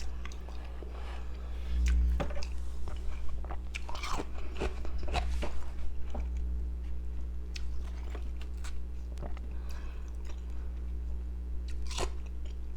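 Powdery, carbonated ice pieces crunched between the teeth and chewed, in irregular sharp crunches, with a steady low hum underneath.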